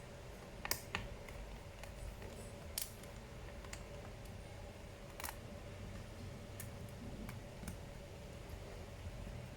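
Scattered light clicks and taps of small tools and laptop parts being handled during reassembly, over a faint steady hum.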